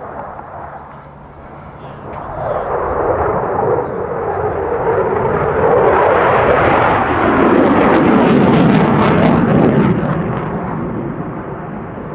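Eurofighter Typhoon's twin jet engines during a display pass. The jet noise builds from about two seconds in and is loudest from about six to ten seconds, with crackle and a falling pitch as the aircraft goes by, then eases off.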